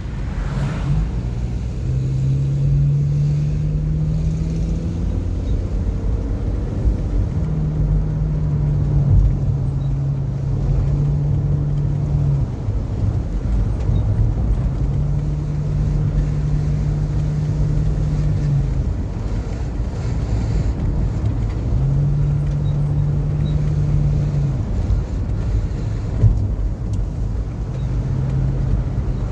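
Car being driven: steady engine and road rumble, with an engine hum that shifts up and down in pitch several times as the car speeds up and slows.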